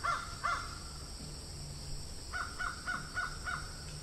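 A bird calling in quick runs of short calls, about three a second. One run ends shortly after the start and another runs from a little past halfway to near the end.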